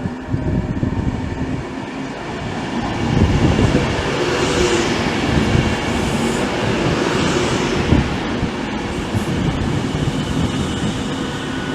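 A train running through on the tracks: a steady rumble with a low hum, getting louder about three seconds in.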